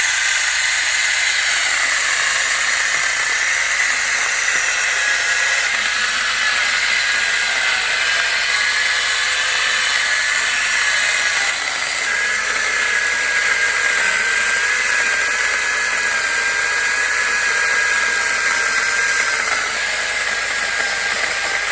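Angle grinder fitted with a chainsaw-bar kit, running at speed and sawing through a log: a loud, steady high-pitched motor whine over the noise of the cut, briefly dipping about halfway through.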